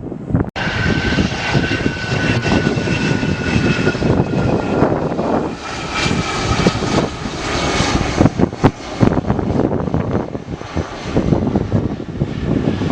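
Jet airliner's engines passing, a loud rush with a high whine that slowly falls in pitch and fades after about eight seconds, over wind buffeting on the microphone.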